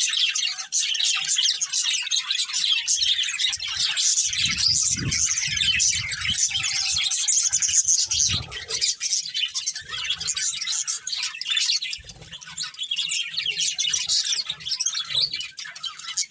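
Budgerigars chirping and chattering continuously in a dense stream of quick, high chirps.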